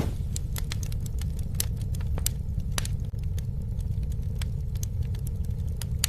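Campfire burning: wood crackling with scattered sharp pops over a steady low rumble of the flames.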